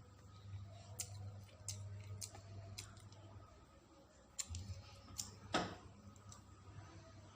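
Eating noises from someone eating a cheese donut: scattered small clicks and taps of mouth and handling, the loudest about five and a half seconds in, over a steady low hum.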